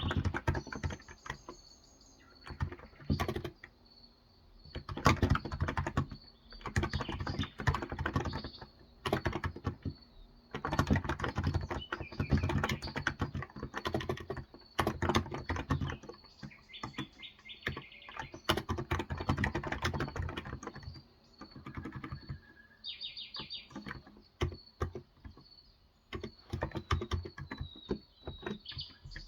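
Typing in bursts with short pauses on a Cox Endeavour tenkeyless keyboard with 35 g electrostatic capacitive switches, keys clattering softly. Birds chirp in the background.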